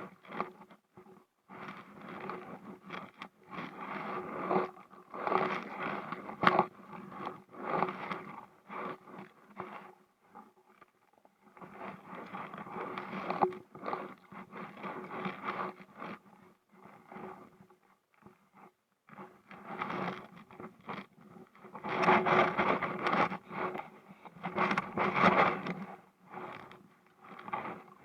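Kayak paddling noise: paddle splashes and dripping with scraping and knocking on the Sea Eagle SE370 inflatable kayak, coming in uneven spells with short pauses. It is loudest a little after two-thirds of the way in.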